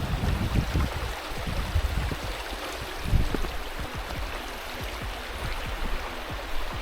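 Guadalupe River water flowing in a steady rushing wash, with irregular low thuds on the microphone, the heaviest about three seconds in.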